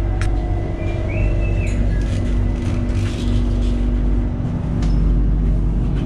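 BTS Skytrain car running into a station, heard from inside the car: a steady low rumble with a steady motor hum, and a brief high whine about a second in.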